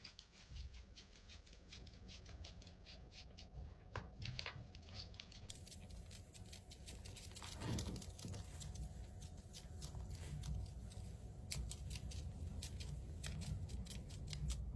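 Faint, irregular clicking and crackling, a few clicks a second, over a low steady hum.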